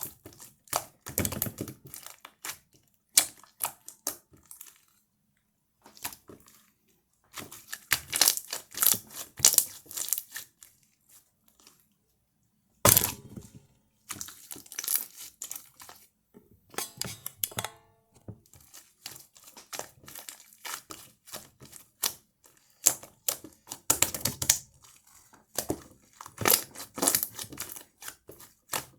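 Slime topped with soft air-dry clay being squeezed, stretched and poked by hand, giving bursts of crisp crackling and crinkling clicks with short pauses between.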